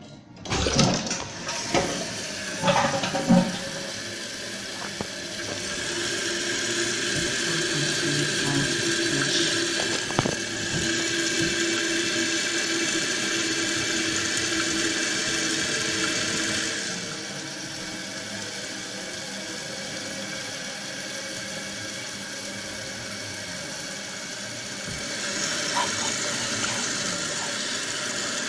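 Kohler Wellworth toilet flushing: a few clunks at the start, then rushing water as the bowl empties and the tank refills through the fill valve, the water noise easing off about two-thirds of the way through and growing again near the end.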